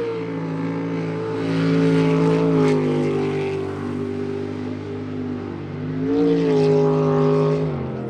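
Jet sprint boat engine revving hard through a run, its pitch climbing and dropping as the throttle goes on and off; it is loudest about two seconds in and again around six to seven seconds in.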